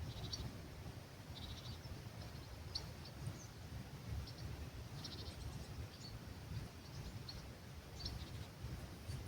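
Small birds calling at dawn: scattered high chirps and two short rapid trills, about a second and a half in and again around five seconds, over a low rumble of breeze on the microphone.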